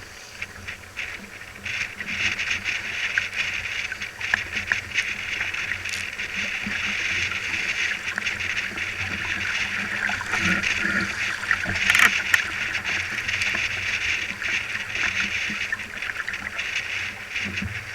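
Water rushing and splashing along the hull of a small sailing dinghy going fast in a strong wind, a steady hiss that grows louder about two seconds in, with a sharper splash about twelve seconds in.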